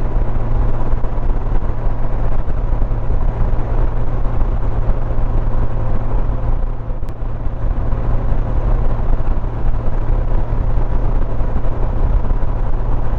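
Steady wind rush and engine drone from a Honda Gold Wing motorcycle cruising at highway speed.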